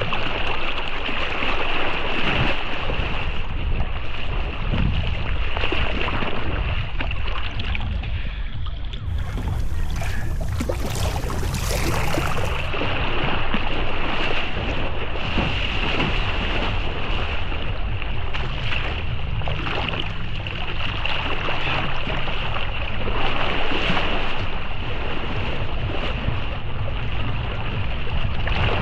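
Wind buffeting the microphone over sloshing, splashing water, steady throughout, with a brighter hiss for about three seconds starting around nine seconds in.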